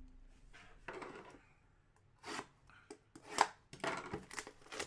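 Trading cards and packaging being handled on a table: irregular short rustles, scrapes and light clicks as cards are slid and flipped.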